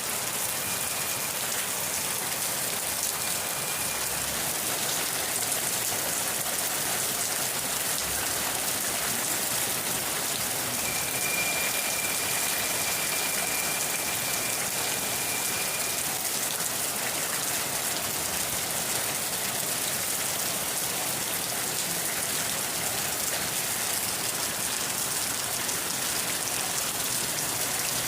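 Steady rain falling and pattering on surfaces, an even hiss with no let-up. A faint high steady tone sounds briefly twice behind it.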